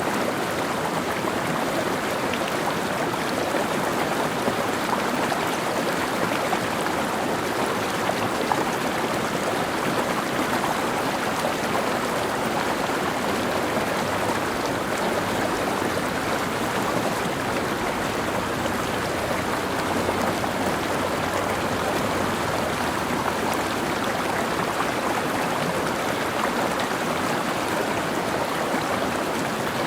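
Mountain stream running steadily over rocks, a constant rush of water with light gurgling.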